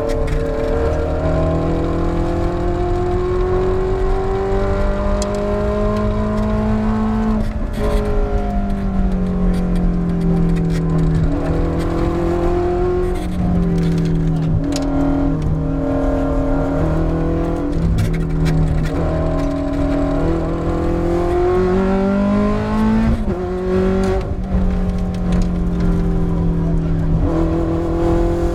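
Ferrari F430 GT race car's V8 engine running hard on track. Its note climbs steadily and then drops back several times, about 7, 13 and 21 seconds in, as the car accelerates, shifts and slows for corners.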